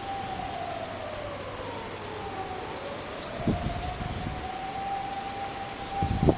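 A distant siren wailing slowly: its pitch sinks and climbs back over a few seconds, then holds steady. Outdoor background noise runs underneath, with a dull knock about halfway through and another near the end.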